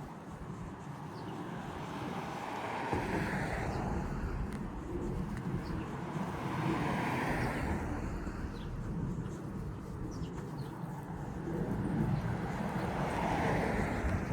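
Road traffic: cars passing in slow swells that rise and fade about three times over steady traffic noise.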